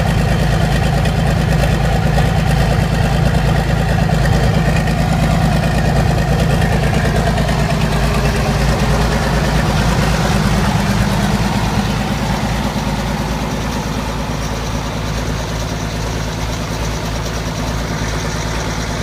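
Rebuilt Ford 2725E marine diesel engine running steadily on its first start after the rebuild. It gets slightly quieter about twelve seconds in.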